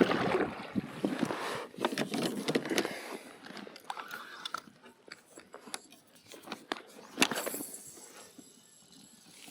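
Close handling noises of fishing gear being worked in a kayak: scattered clicks, scrapes and rustles, busiest in the first few seconds, with a sharp click about seven seconds in.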